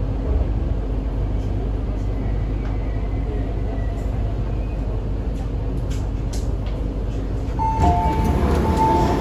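MTR C-train metro car running, heard from inside the carriage: a steady low rumble of wheels and motors with occasional light clicks. Near the end, a couple of steady tones and a louder clatter come in.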